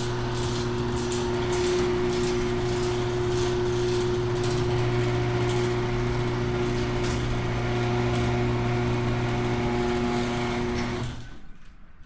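Garage door opener running an old insulated sectional door along its tracks: a steady motor hum with clattering and clicking from the door as it travels, stopping about eleven seconds in.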